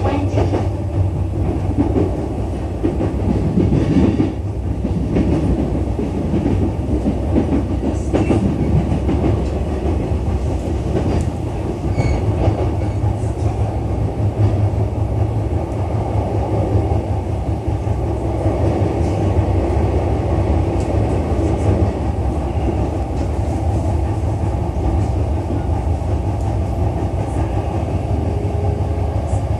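Interior running noise of a JR East E233-3000 series electric train at speed: a steady rumble of wheels on the rails with a few faint clicks over the track.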